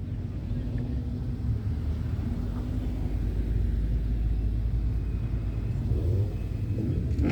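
Low, steady rumble of car engines running, getting slightly louder about halfway through.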